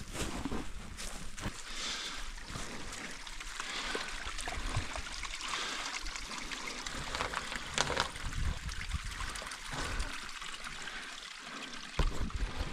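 A stream running and trickling over stones, with a few sharp knocks, about eight seconds in and near the end.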